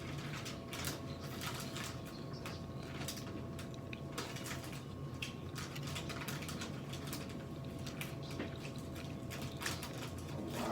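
Close-up eating sounds of shrimp salad being chewed: wet mouth noises and many small irregular clicks, over a steady low hum.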